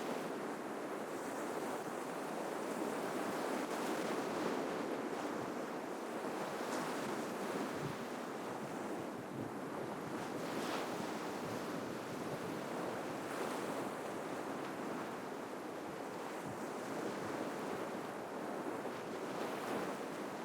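Ocean surf: waves breaking and washing up the shore in a continuous wash that swells and eases gently, with a few brief splashes.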